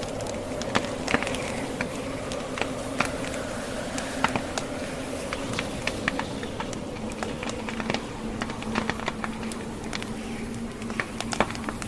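Wood fire crackling in a fireplace, with many sharp, irregular pops and snaps. A steady low hum runs underneath.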